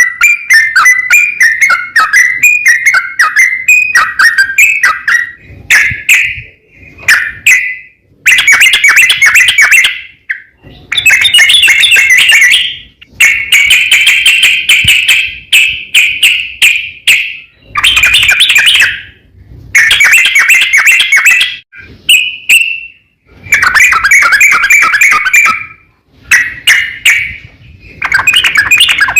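Yellow-vented bulbul (trucukan) singing a long rolling song: a rapid choppy run at first, then loud bubbly phrases of one to two seconds each with short pauses between them. It is a lure song meant to provoke other trucukan into answering.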